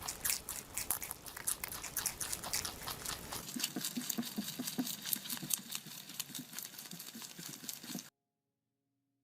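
An animal making rapid, irregular clicking and pattering sounds that stop abruptly near the end.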